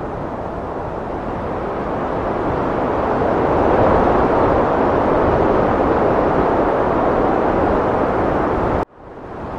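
Heavy wind blowing in a steady rush that swells into a strong gust about four seconds in and holds. Near the end it cuts off abruptly and fades back in within a second.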